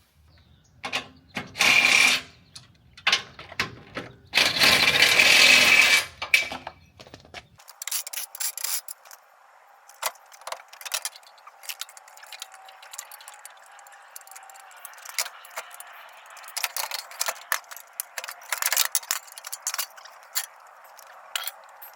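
Metal clinking, rattling and tapping of hand tools and bumper parts being worked on, with two louder noisy bursts in the first few seconds, the second lasting about two seconds. After that come lighter, scattered clicks and taps.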